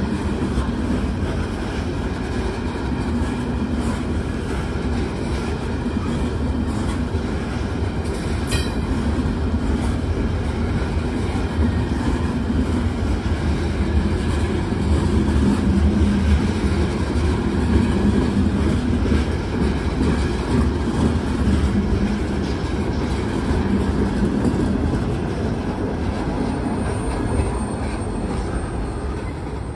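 CSX freight train's loaded open-top hopper cars rolling past close by: a steady rumble of steel wheels on rail, with one sharp click about eight seconds in.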